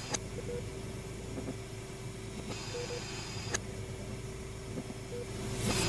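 Dark horror ambience: a steady low rumbling drone with a faint hum. A few short paired electronic beeps, two sharp clicks and a brief burst of hiss about halfway through sit over it.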